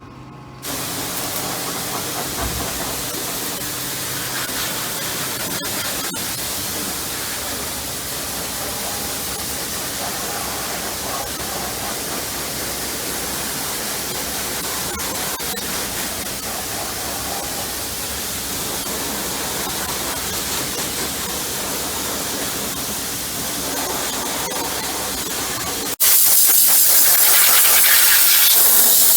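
High-pressure cleaning jet hissing steadily against a removed truck engine. About 26 s in it changes abruptly to a louder, sharper hiss.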